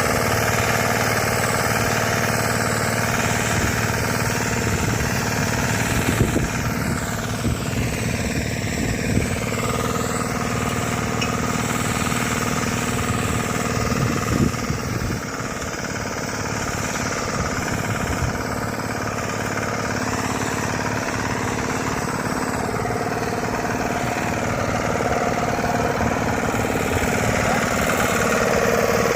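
Five-horsepower engine of a mini tractor cultivator running steadily, with a few brief louder knocks partway through.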